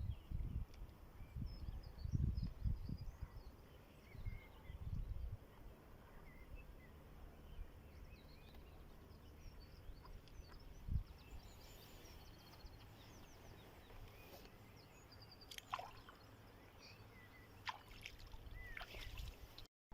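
Quiet outdoor ambience at a pond: low rumbles in the first five seconds, with small birds chirping faintly throughout and a few sharper calls near the end.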